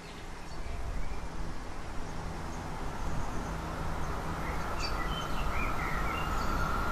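Birds chirping over a low rumble from an approaching electric passenger train, with a steady high whine building from about halfway through.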